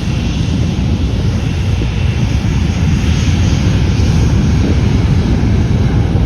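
Airbus A321 jet engines at takeoff thrust: a loud, steady, deep roar that slowly grows louder.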